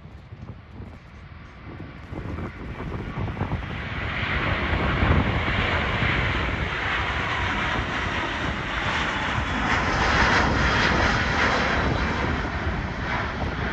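Airliner's engines passing close by, a broad rushing roar that swells from about two seconds in and is loudest around ten seconds.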